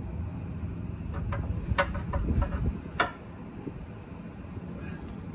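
Metal hand tools clinking and knocking against each other and the wheel several times, with the sharpest strike about three seconds in, over a steady low rumble.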